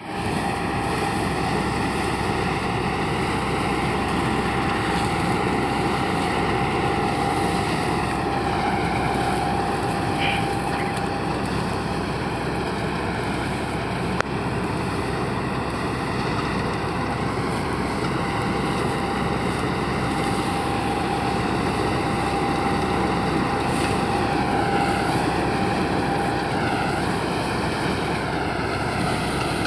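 Kuldeep combine harvester running steadily, with a whining tone that drops out for a while in the middle and returns, and a few shifts in pitch.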